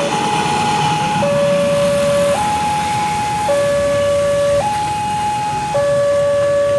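Railway level crossing warning alarm sounding an electronic two-tone signal, alternating between a higher and a lower tone about once a second, over steady background rumble.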